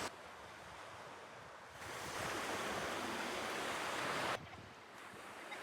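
Sea surf: an even rush of waves, louder for a couple of seconds in the middle, starting and stopping abruptly.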